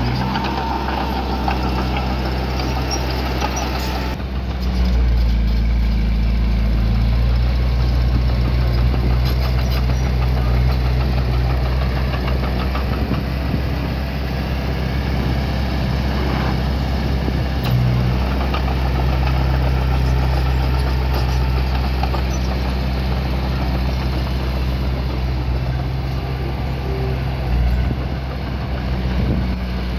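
Diesel engine of heavy earth-moving equipment running steadily, getting louder about four to five seconds in as it works under load.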